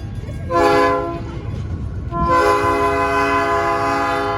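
Diesel locomotive air horn sounding a short blast, then a long held blast starting about halfway through, over the steady low rumble of the locomotive's diesel engine.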